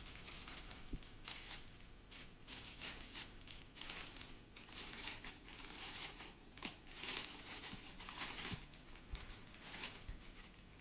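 Irregular crinkling and rustling, a quick run of short noisy scrunches several times a second, with a few light knocks.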